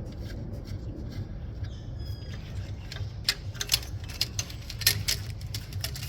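Irregular clicks and scrapes of a hand tool working a 10 mm nut and metal parts being handled, more frequent in the second half, with a brief squeak about two seconds in over a low steady hum.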